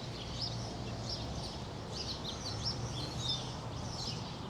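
Small birds chirping: many short, high chirps in quick, irregular succession, over a low steady hum.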